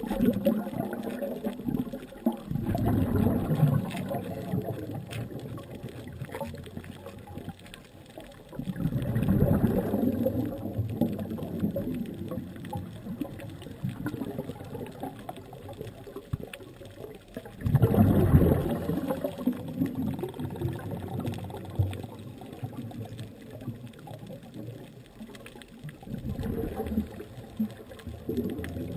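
Scuba diver breathing through a regulator underwater: four rushes of exhaled bubbles, each about two seconds long, coming roughly every eight seconds, with a low steady underwater hiss between them.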